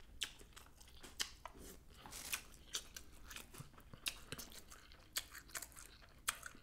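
A person chewing a mouthful of rice: faint, irregular mouth smacks and clicks.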